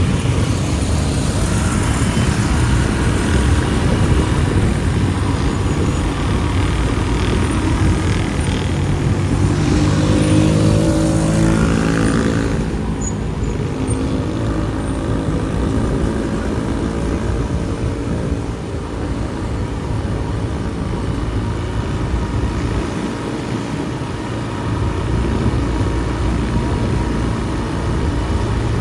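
Street traffic heard from a moving motorbike: a steady engine and road rumble, with a motor vehicle's engine rising in pitch and falling away about ten seconds in.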